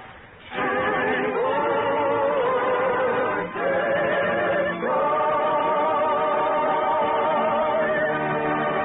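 Operatic singing: long held notes sung with a wide vibrato, briefly broken off a few times, in a muffled vintage radio-broadcast recording.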